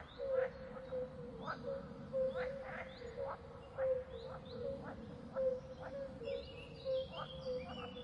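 Birds chirping in a nature soundscape: short, quick chirps a few times a second, irregularly spaced, over a steady low drone.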